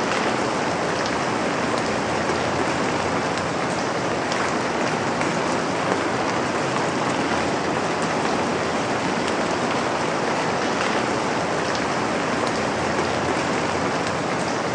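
Steady rain falling, an even hiss with scattered raindrop ticks and no change in level.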